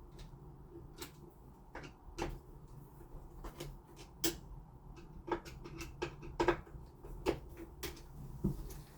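Irregular light clicks and knocks of small lock hardware being handled and screwed on a door, a dozen or more sharp taps spread unevenly, a few louder ones in the second half.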